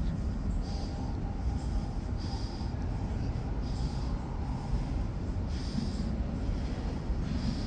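R46 subway train running through a curve into the station: a steady low rumble, with short high wheel squeals every couple of seconds.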